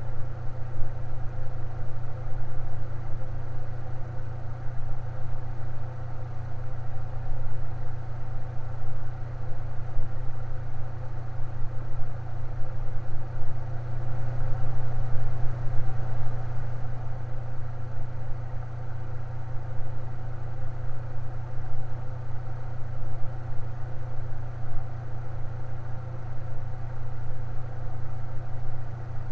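Electric fan running steadily: a strong low motor hum with an even whir above it, unchanging throughout.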